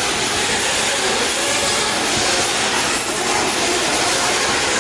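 Several nitro-powered off-road RC cars running together on the track, their small glow engines making a steady high-pitched din.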